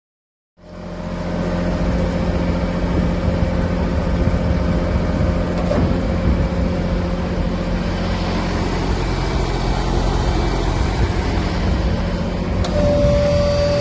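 Compact tractor engine running steadily, cutting in abruptly about half a second in. A higher, steady whine joins near the end.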